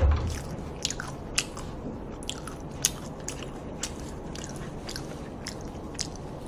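Close-miked chewing with the mouth closed: irregular wet clicks and smacks, a few every second, with a low thump at the very start.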